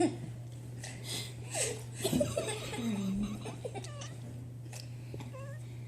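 A person laughing softly in short bursts, over a steady low hum.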